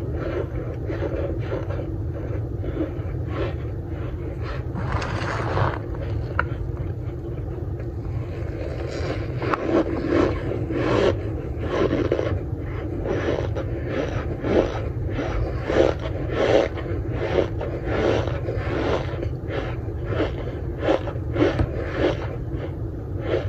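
Chunks of raw cornstarch crunching squeakily as they are bitten and chewed. The chewing turns louder and more regular, about two crunches a second, from around a third of the way in, over a steady low hum.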